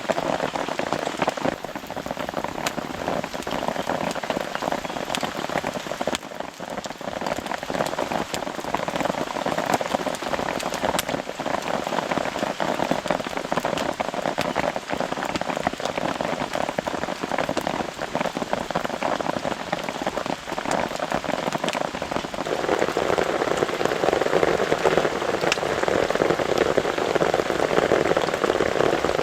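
Steady rain falling on a camping tarp, a continuous hiss with many separate drops ticking. About 22 seconds in, the rain grows louder and fuller.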